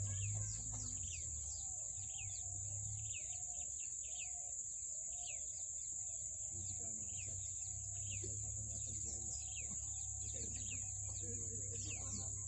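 A small bird repeats a short, falling chirp about every three-quarters of a second, over a steady high-pitched drone and a low rumble in the background.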